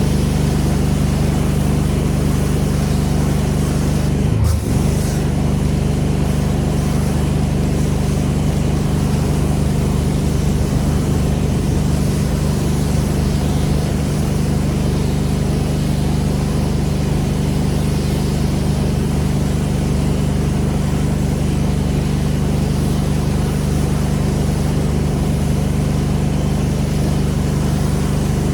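Pressure washer's engine running at a steady speed, with a constant hiss of spraying water over it; a brief bump about four and a half seconds in.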